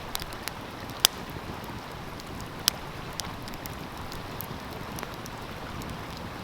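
Wood fire crackling, with two sharp pops about a second and under three seconds in and a few fainter snaps, over the steady rush of a flowing stream.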